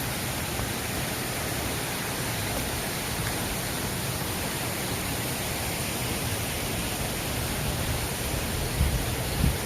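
Mountain stream rushing in full flow after rain, a steady even roar of water. A couple of low thumps near the end.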